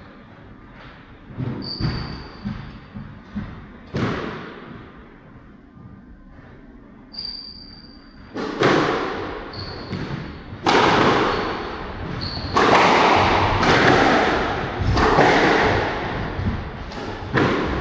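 Squash ball being played: a few scattered knocks, then from about halfway a quick run of sharp racket strikes and ball hits on the walls, about one a second, in a large echoing hall. Short high squeaks come between the hits.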